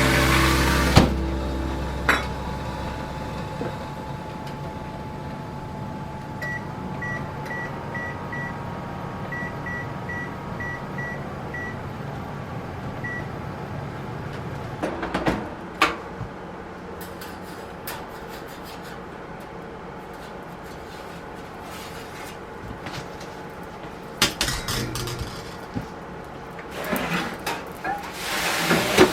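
Oven control panel beeping as settings are keyed in: about a dozen short beeps over the oven's steady hum. A knock follows a few seconds later, then some clatter near the end.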